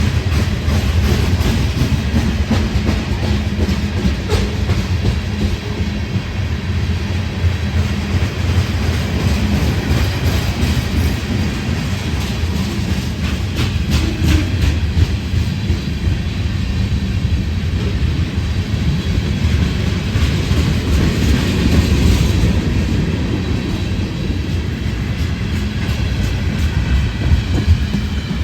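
A train rolling past close by: a steady, loud rumble of cars on the rails with repeated clicking of wheels over rail joints.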